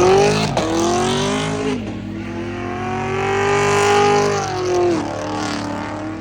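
Car engine revving hard, its pitch climbing and dropping sharply twice in the first two seconds, then rising slowly and falling away near the end.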